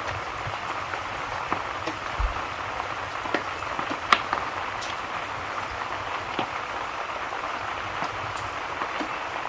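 Steady rain with scattered sharp pops and ticks; the loudest pop comes about four seconds in.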